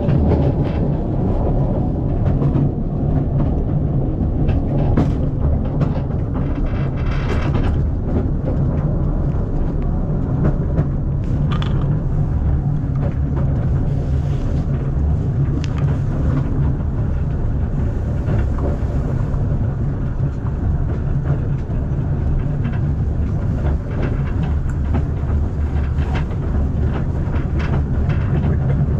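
Narrow-gauge steam train carriage running along the track, heard from inside: a steady low rumble with scattered clicks and rattles.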